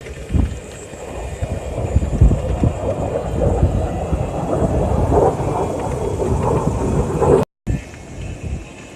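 Aircraft engine roar mixed with wind buffeting the microphone, the roar building over several seconds, then breaking off for a moment about seven and a half seconds in.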